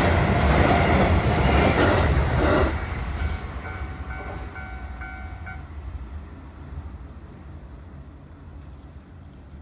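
Keio Line train passing over a level crossing, loud for the first couple of seconds and then fading away into the distance. A crossing warning bell rings on in a repeating pattern for a few seconds after the train has passed, then stops.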